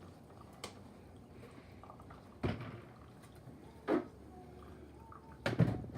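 A few sharp knocks and clunks from hands working on a furnace humidifier as it is flushed with water, the loudest cluster near the end, over a low steady background.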